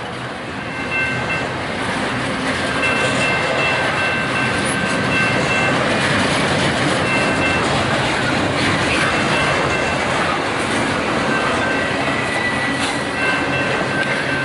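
Double-stack intermodal container train rolling past at close range: a steady rumble of steel wheels on rail. Thin high squealing tones from the wheels come and go every second or so.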